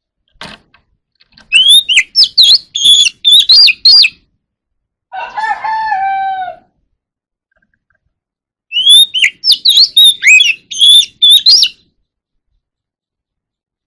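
Oriental magpie-robin singing two bursts of rapid, sliding high whistles and chirps. Between the bursts a rooster crows once, quieter and lower.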